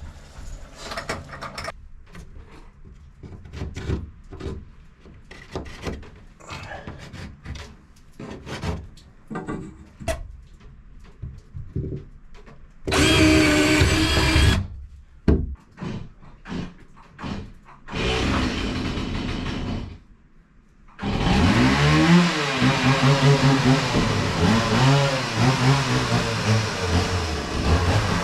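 Knocks and clatter of handling parts and tools, then a power drill running: a short burst, a second run, and from about two-thirds of the way in a long continuous run that spins up in pitch as it starts.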